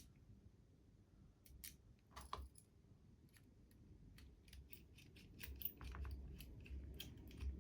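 Small metal parts of a Märklin HR 800 N model locomotive being handled: faint, scattered light clicks and ticks, coming more often in the second half, as the front pony truck is taken off and the housing screw is worked in.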